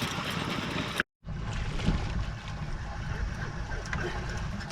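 Steady wind and water noise aboard a slowly trolling fishing boat, with a low rumble. It cuts to silence for a moment about a second in, then resumes.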